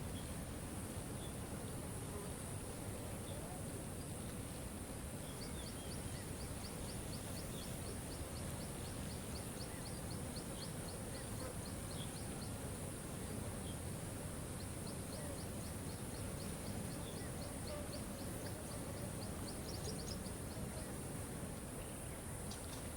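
Waterfall's steady rush, with a continuous high buzz over it. Twice a bird sings a run of quick, evenly spaced high chirps, about four a second, each run lasting several seconds.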